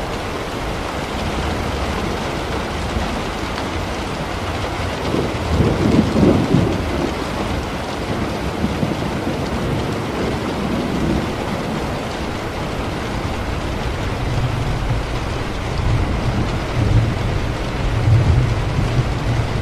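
Steady rain with thunder: a rumble of thunder swells about five seconds in and dies away, and low rolling thunder rumbles again in the last few seconds.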